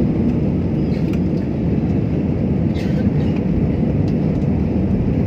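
Passenger aeroplane's steady low rumble of engines and rushing air.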